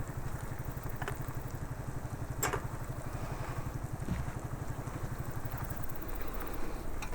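An engine idling steadily with a rapid low pulse, and a single sharp click about two and a half seconds in.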